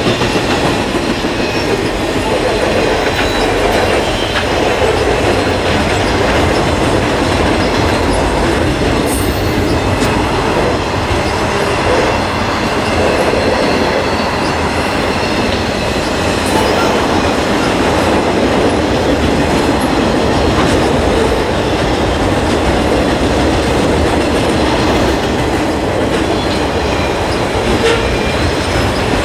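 Freight and passenger cars of a long train rolling past close by, a steady loud noise of steel wheels running on the rails.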